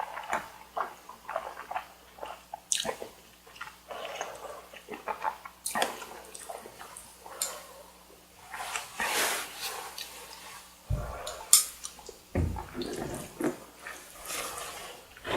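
Close-miked eating of carbonara buldak stir-fried noodles and chewy bar rice cake: wet chewing and slurping with many small mouth clicks. Two low thumps come about two-thirds of the way through.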